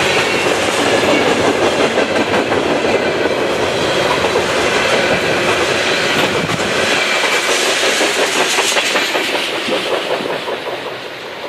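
Coal train's freight cars rolling past, wheels clicking over rail joints in a steady clickety-clack, fading near the end.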